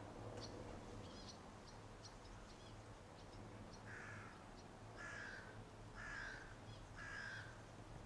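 Faint outdoor birdsong: short high chirps through the first few seconds, then a bird calling four times, about a second apart, from about halfway through.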